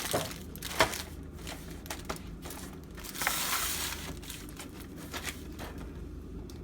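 Kitchen handling noises: scattered light clicks and crinkling, with a short rustle about three seconds in.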